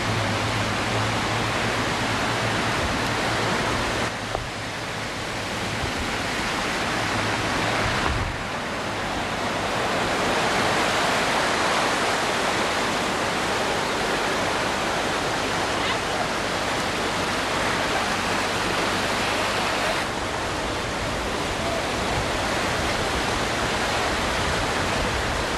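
Floodwater rushing steadily, a constant wash of water noise, with abrupt shifts in level about four and eight seconds in.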